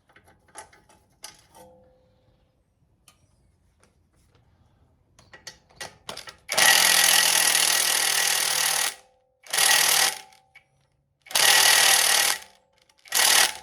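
Cordless impact wrench hammering at bolts on an engine in four bursts, the first about 2.5 s long and the rest shorter, after a few seconds of light clicks from tools being handled. Its battery is running low.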